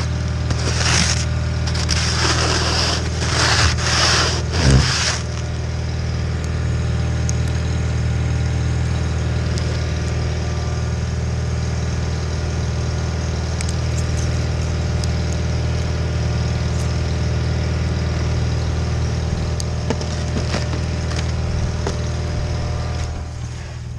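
John Deere 318 garden tractor's engine running steadily while it works a Model 49 snowblower. Over the first five seconds several loud hissing whooshes, like scraping snow, sound over the engine, and the engine sound drops just before the end.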